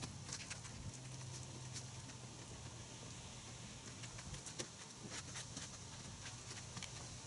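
Faint wet patter and scattered clicks of a car being hand washed with soapy water, over a low steady hum.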